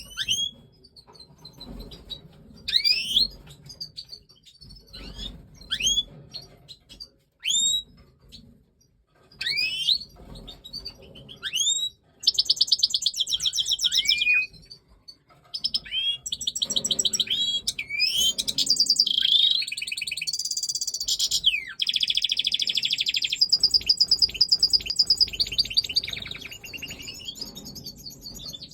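European goldfinches of the Major race giving short, sharp rising call notes with gaps between them. About twelve seconds in they break into fast, near-continuous twittering song.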